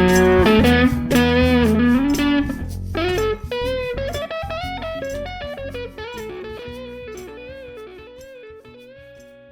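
Electric guitar through a Tone King Gremlin tube amp with no pedals, playing a bluesy lead over a jam backing track. The backing drops out about three seconds in, and the guitar carries on alone with bent, wavering notes that fade away.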